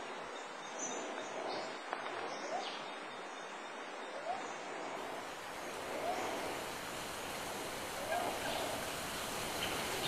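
Bush ambience: a steady hiss with a bird giving short rising calls every second or two.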